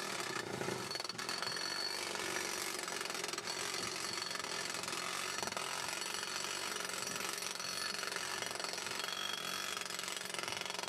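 Atlas Copco Cobra Combi gas-powered breaker hammering steadily. Its two-stroke engine and built-in impact mechanism give a rapid, even stream of blows.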